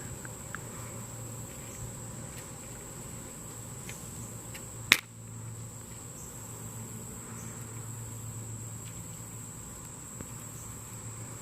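Insects buzzing in one steady high tone by the creek, with a single sharp click about halfway through.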